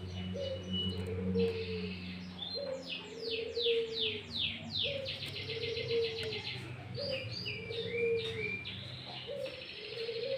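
Sooty-headed bulbul (kutilang) in full song, its phrases filled with greater green leafbird (cucak ijo) song: quick runs of high falling whistled notes and a buzzy trill about halfway through. Under it, a lower cooing call repeats about every one and a half seconds.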